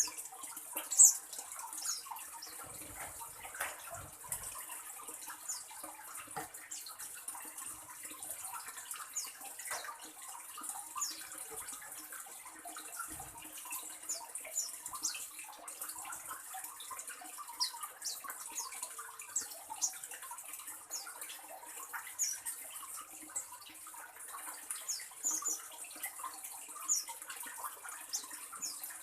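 Small birds chirping: many short, high chirps scattered throughout, the loudest about a second in, over a steady hiss.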